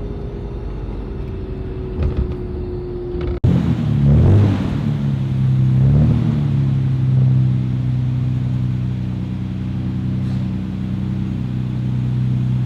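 Nissan Skyline GT-R's RB26DETT twin-turbo straight-six engine on the road: a steady drone that cuts off abruptly a few seconds in, then the engine revs rise and fall before settling into a steady cruise.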